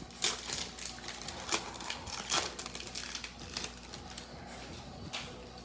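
Cellophane wrapper of a trading-card cello pack crinkling and tearing as it is opened by hand, in irregular crackles with a few sharper snaps.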